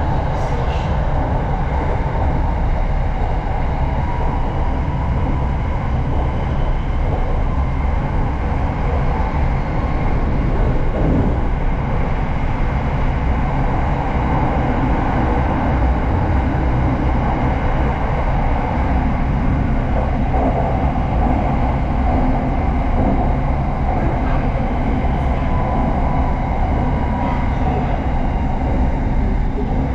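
Steady rumble and hum heard inside the car of a moving SRT Red Line electric commuter train, a Hitachi AT100 unit running at speed, with a faint steady whine over the running noise.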